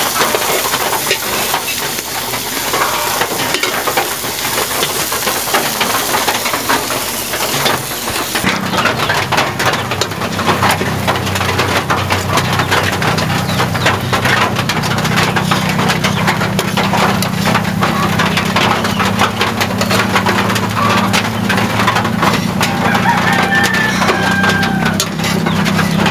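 Mushroom fritters sizzling in hot oil in a pan over a wood fire. About eight seconds in, the sizzle gives way to a steady low hum and many small sharp crackles from the burning wood.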